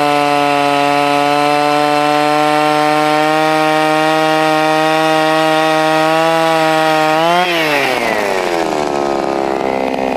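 Small two-stroke engine of a gas ice auger revved up and held at high, steady speed. About three-quarters of the way through, the pitch jumps briefly, then falls as the throttle is let off, and the engine settles to a lower, uneven speed.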